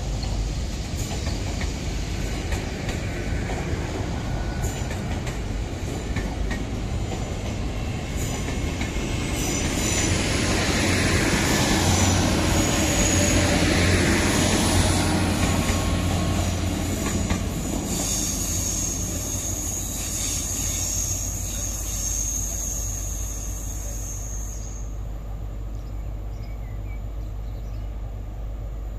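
Diesel high-speed train led by a Class 43 power car, moving through a station: engine running and wheels on the rails, loudest about halfway through. A high steady squeal starts about two-thirds of the way in and stops suddenly some six seconds later.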